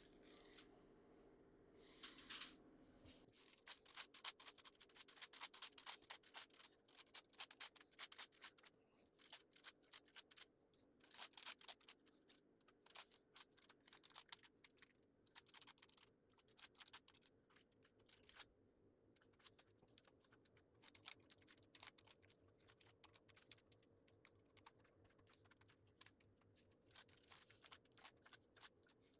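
Faint, rapid, irregular clicking and scratching, like small handling sounds on a work surface, densest in the first half.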